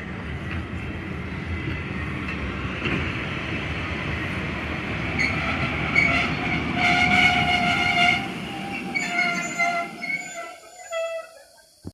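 FS 640 steam locomotive hauling its train past with a steady rumble of wheels and carriages. About halfway through, a steady whistle tone sounds for several seconds, then breaks up. The rumble fades out near the end.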